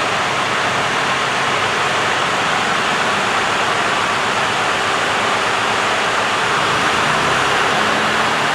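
2019 Mercedes-Benz Actros 2545 tractor unit's straight-six diesel engine idling steadily, heard as an even rushing noise. A steady low hum joins in near the end.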